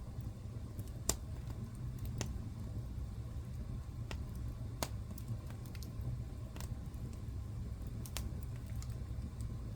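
Wood fire burning in a fireplace: a steady low rumble with sharp crackles and pops every second or so, the loudest about a second in.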